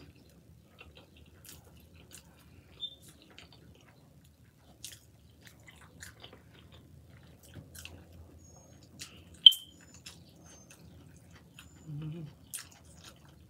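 Close-miked chewing of a mouthful of burger: faint wet mouth clicks and smacks, with one sharp click about two-thirds of the way through and a brief low hum near the end.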